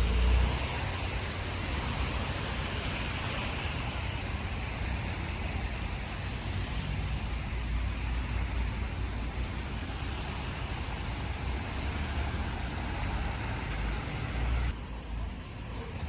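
Steady road vehicle noise with a low rumble, cutting off abruptly near the end.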